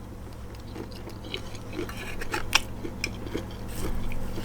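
A person chewing food close to the microphone, with small irregular mouth clicks and smacks over a low steady hum.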